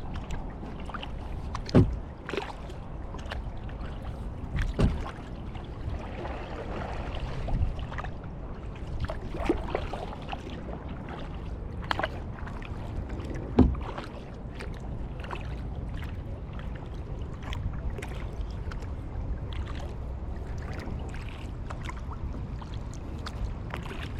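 Kayak paddling: the paddle blades dip and splash, and water drips steadily. A few sharp knocks, the loudest about 13 seconds in, stand out over a steady low rush.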